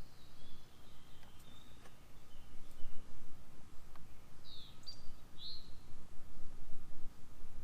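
Songbirds chirping, with two short falling chirps about halfway through and fainter calls near the start, over a steady low rumble.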